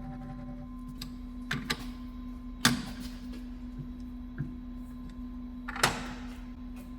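Sharp metal clanks and clinks as a cut steel disc blank is set up in a lathe chuck, a few separate knocks, the loudest about a third of the way in and near the end, over a steady machine hum.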